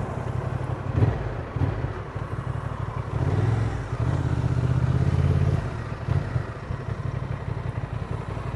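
Honda Transalp's twin-cylinder engine running under way while being ridden, over a steady hiss. The engine note grows louder from about three seconds in and eases off again at about five and a half seconds.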